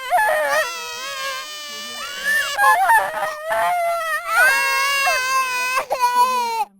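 High-pitched crying: long, wavering wails one after another, cutting off suddenly near the end.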